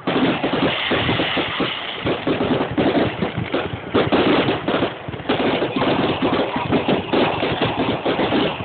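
Fireworks display in a dense barrage: rapid, overlapping bangs and crackles with no break.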